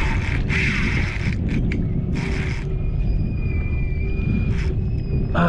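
Wind rumbling on the microphone, with several short bursts of a spinning reel's drag buzzing as a big fish, a jack crevalle, pulls line off an ultralight rig. A thin steady whine comes in from about halfway.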